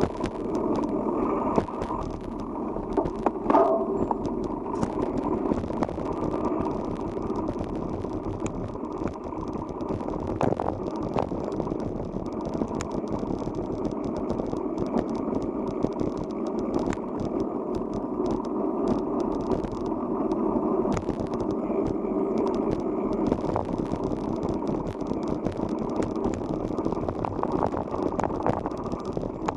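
Riding noise from a mountain bike on a rough forest road: steady rolling rumble of the tyres with frequent rattles and clicks from the bike.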